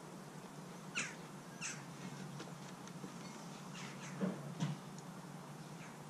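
Several short bird chirps, each falling quickly in pitch, over a steady low hum, with two dull thumps close together about four and a half seconds in.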